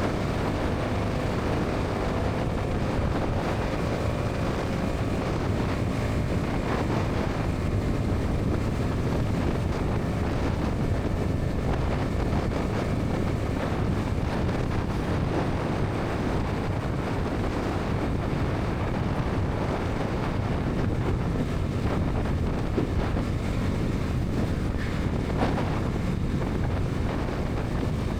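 Wind rushing over the microphone at highway speed on a Bajaj Pulsar NS 200, with the bike's single-cylinder engine running steadily underneath.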